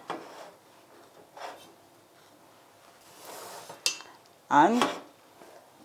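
A serving spoon knocking, scraping and clinking against a pot and plate as rice is dished up: a few separate knocks, a short scrape, and a sharp ringing clink just before four seconds in.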